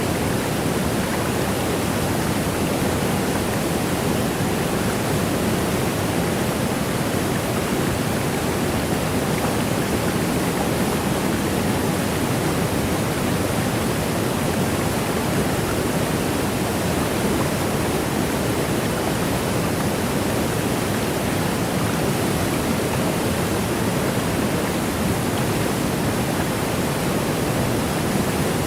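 Waterfall: water cascading and rushing in a steady, even roar with no breaks or changes.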